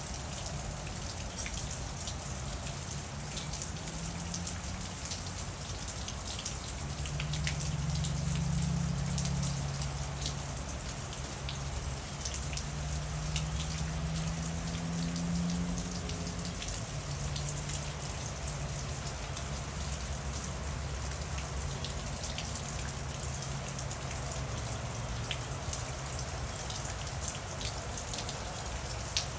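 Steady rain falling, with many individual drops ticking on a surface, over a low hum that swells for a few seconds in the first half.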